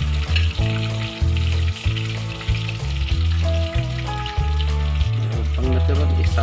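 Chicken pieces deep-frying in a pan of hot oil, a steady crackling sizzle, under background music with a repeating bass line.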